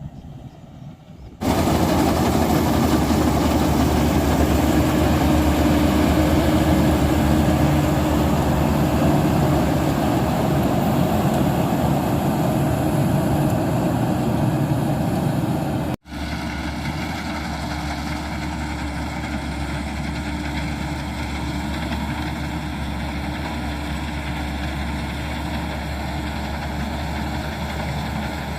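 Tractor engine running, loud and noisy, starting abruptly about a second in. After a sudden break about halfway through, a quieter, steady engine hum.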